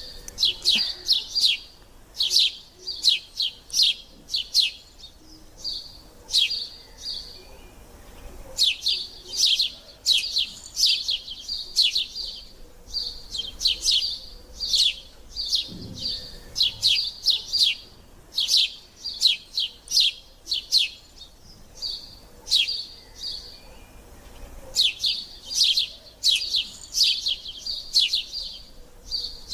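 Sparrows chirping: short, sharp, high-pitched chirps repeated in quick bursts of several notes, with brief pauses between bursts.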